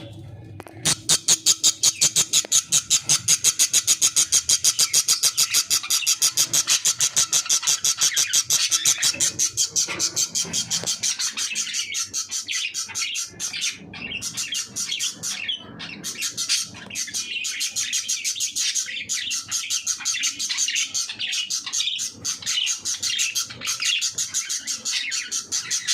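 Budgerigar chick begging with rapid, evenly repeated high cheeps while its mother feeds it. The cheeps start about a second in, are loudest in the first third and carry on a little softer to the end.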